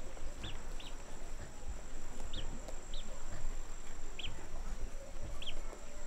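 Outdoor ambience: six short, high bird chirps come at irregular intervals, over a steady thin high-pitched whine and an uneven low rumble.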